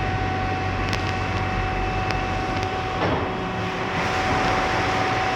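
D&S Quicksilver touchless in-bay car wash machine running: a steady whine over a constant rushing noise, with a hissing spray growing stronger about three seconds in.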